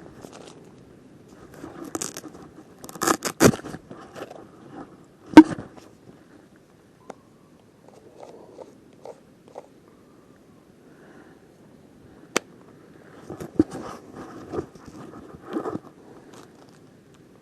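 Hands handling a geocache container and its plastic bag: irregular rustling, crinkling and scraping, with a sharp snap about five seconds in and a few clicks later.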